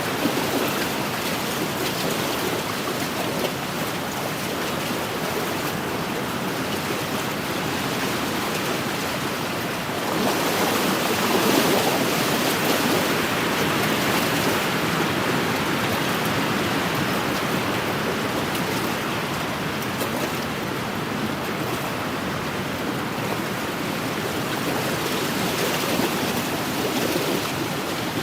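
Wind-driven waves washing steadily against an inland lake shore, swelling a little about ten seconds in.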